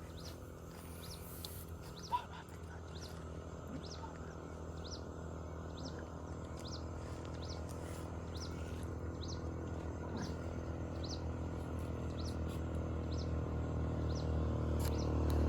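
Outdoor ambience with a short high chirp repeating about once or twice a second over a steady low hum that slowly grows louder, and one brief louder sound about two seconds in.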